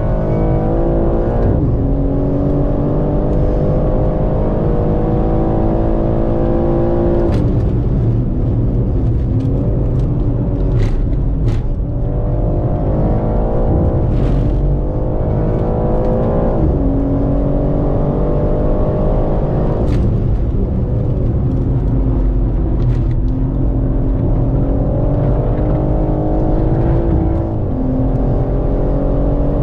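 BMW M3 Competition's twin-turbo straight-six pulling hard, heard from inside the cabin: the engine note climbs steadily in pitch and then falls back abruptly, several times over, as it is run up through the gears at full throttle. A few sharp clicks cut through.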